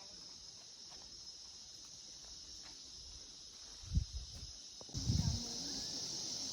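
A steady high-pitched insect chorus that grows louder about five seconds in, with two low thumps about four and five seconds in.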